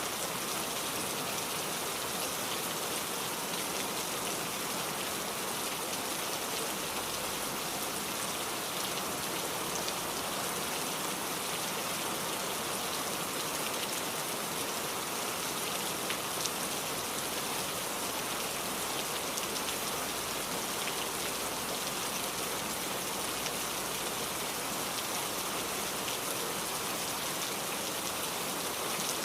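Steady rain falling on a surface, a constant patter of drops with no let-up.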